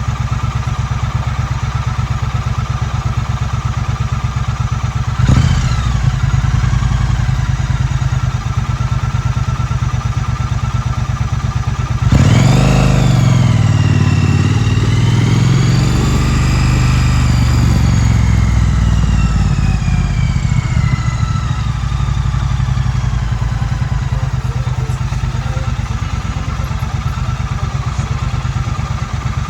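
2016 Triumph Street Twin's 900 cc parallel-twin engine ticking over steadily, with a short throttle blip about five seconds in. About twelve seconds in it revs up sharply as the bike pulls away, dips and climbs again through the gears, then slowly winds down to a steady cruise.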